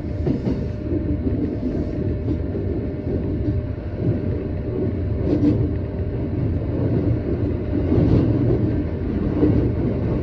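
Electric commuter train running along the track: a steady low rumble of wheels and running gear heard from inside the train, with a few faint clicks in the second half.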